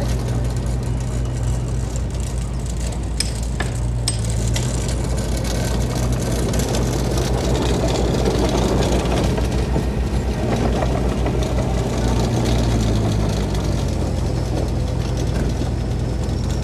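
Heavy diesel earthmoving machinery engine running steadily, with a few sharp clicks about three to four seconds in.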